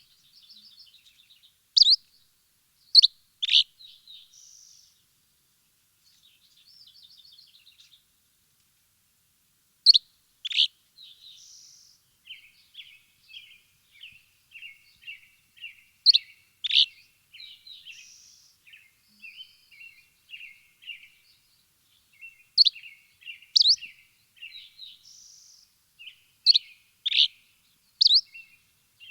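Songbirds chirping: loud, sharp chirps that come singly or in pairs every few seconds, over quieter runs of rapid, twittering notes, with a few silent gaps in between.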